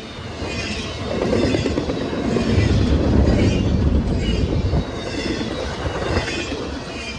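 Train passing, a rumbling rattle of wheels on rails that swells about a second in, is loudest between about two and five seconds in, then eases.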